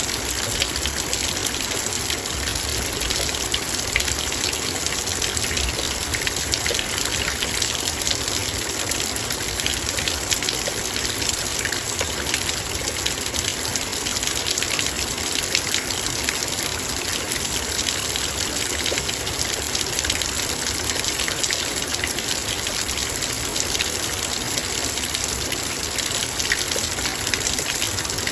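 Heavy rain falling steadily, with dense, fast raindrop ticks pattering on a metal bowl.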